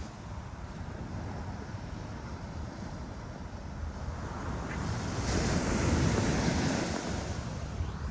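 Ocean surf on a beach, a steady low rumble that swells into a louder hiss of breaking and washing water about five seconds in, with wind buffeting the microphone.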